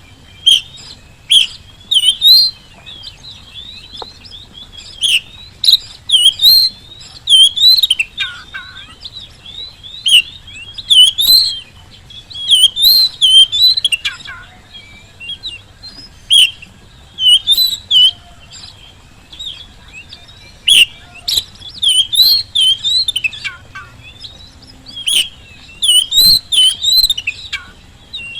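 Oriental magpie-robin singing: rapid, varied phrases of sweeping whistles and chirps, coming in bursts separated by short pauses.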